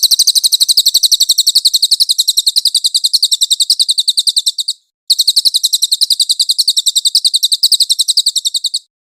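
Songbird trill of a masteran training recording: very high, rapid notes repeated evenly many times a second, in two long bouts with a short break about five seconds in.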